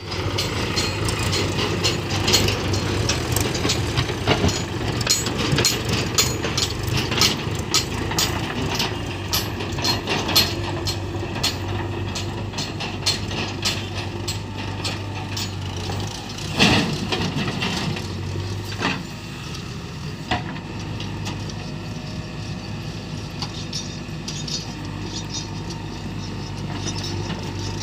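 Diesel engine of heavy road-work machinery running steadily, with frequent knocks and clatter over it and one louder knock about 17 seconds in.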